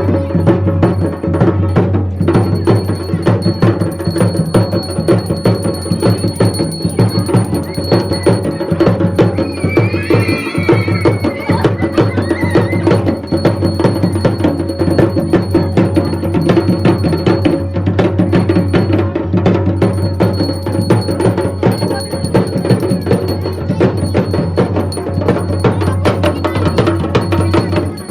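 Loud traditional Uttarakhandi folk music for a doli dance, with fast, continuous drumming.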